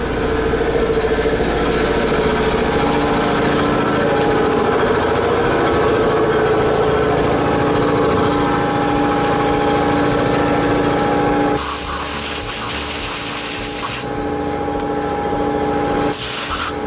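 Bead blast cabinet at work: a steady motor hum with held tones runs throughout, and the air blast nozzle hisses loudly for about two and a half seconds around two-thirds of the way in, then again briefly near the end.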